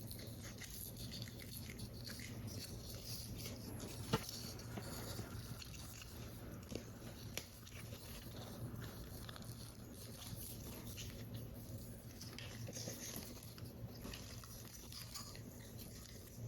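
Paper and card being handled while assembling a paper model: close, small crackles and ticks of the paper, with one sharper tick about four seconds in, over a steady low hum.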